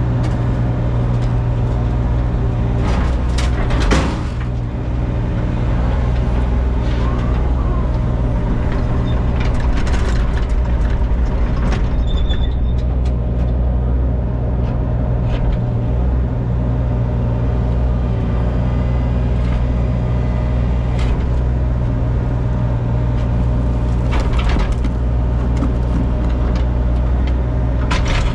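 A heavy-equipment engine running steadily under load, with occasional cracks and scraping knocks as old patched driveway slab is pried up and broken out, a few seconds in, around ten seconds in and near the end.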